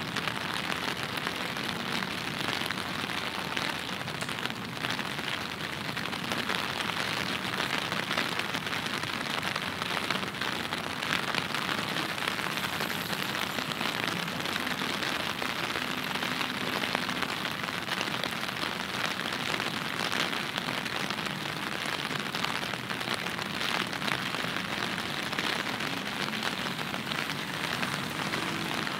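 Steady rain falling, an even hiss made of countless small drop impacts on nearby surfaces, picked up by in-ear binaural microphones.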